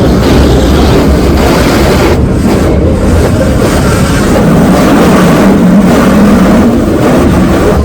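Automatic car wash working over the car, heard from inside the cabin: a loud, steady rushing noise of spray and machinery.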